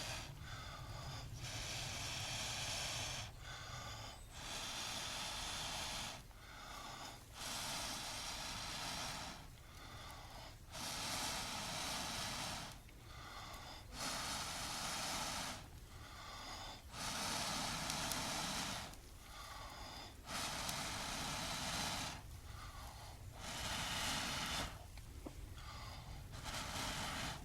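Someone blowing steadily into a smouldering ember wrapped in hay and straw to bring it to flame. There are about nine long blows, each around two seconds, with a short breath drawn between them.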